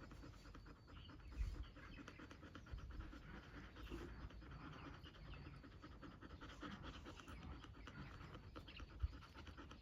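A dog panting, faint and continuous, with two low thumps: one about a second and a half in and one near the end.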